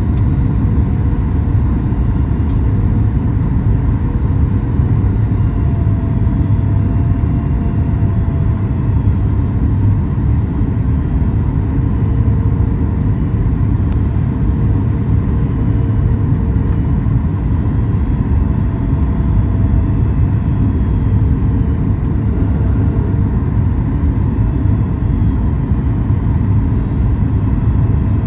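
Steady low rumble inside the cabin of a Boeing 737 MAX 8, from its engines and the airflow, with faint steady tones that come and go.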